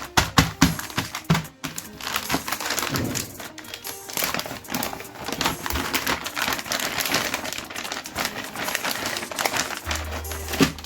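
Plastic stationery packaging being handled and opened: dense, irregular crinkling and clicking throughout.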